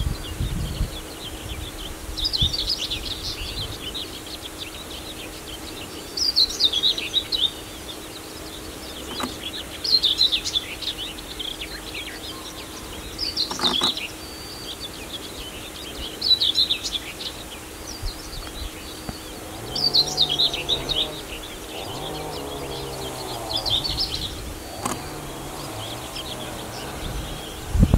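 A songbird singing the same short, high, falling phrase over and over, about every three to four seconds, over a faint steady hum.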